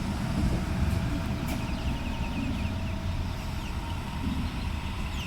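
Sydney Trains electric suburban train rolling slowly along the platform: a steady low rumble with a faint steady whine.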